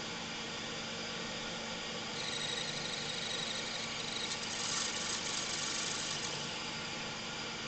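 Small metal lathe running steadily while a cutting tool turns a 6 mm brass rod. From about two seconds in the cut adds a high thin squeal, then a brighter scraping hiss that fades out near six seconds; brass squeals like this when it is machined, oiled or not.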